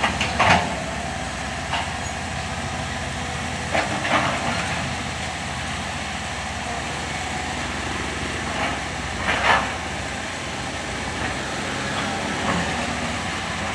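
Komatsu excavator's diesel engine running steadily under work, with three short, louder noises from the machine working near the start, about four seconds in and near ten seconds.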